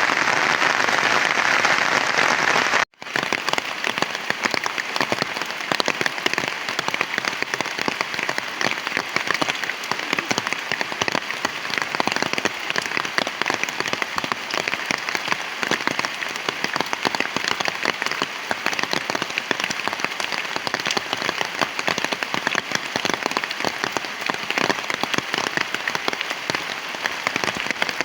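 Heavy rain falling. About three seconds in the sound cuts out for an instant, then returns as a dense patter of individual drops hitting nearby surfaces.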